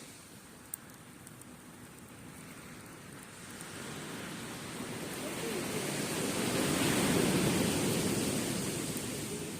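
Surf on the beach: a wave's rush swells about a third of the way in, peaks, then fades near the end.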